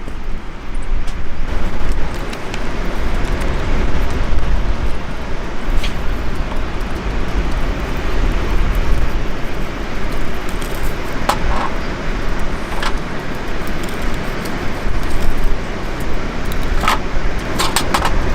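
A steady rushing noise with a heavy low rumble, broken by a few sharp clicks and snaps, most of them near the end.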